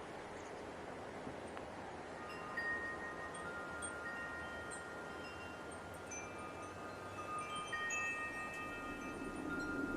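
Wind chimes ringing, several long-held metallic tones overlapping from about two and a half seconds in, over a steady hiss of light wind.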